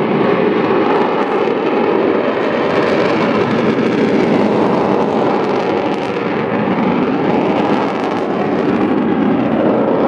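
Avro Vulcan B2's four Rolls-Royce Olympus turbojets running at display power: a loud, steady jet roar with only slight dips in level.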